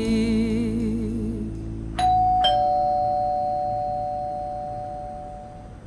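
A held, wavering sung note fades out. Then a two-tone doorbell chime sounds: a higher ding, then a lower dong about half a second later, both ringing on and slowly fading.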